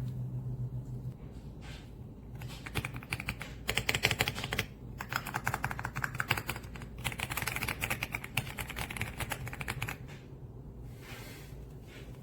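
Fast typing on the EPOMAKER x Aula F75 gasket-mount mechanical keyboard: quick runs of key clicks, starting about two seconds in and stopping about two seconds before the end, with short breaks between runs.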